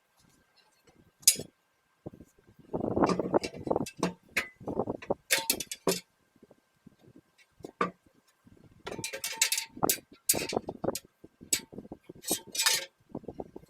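Irregular metal clinks, knocks and scraping as steel parts of a homemade gravel separator are handled and worked on, with a sharp clank about a second in and clusters of clattering in between.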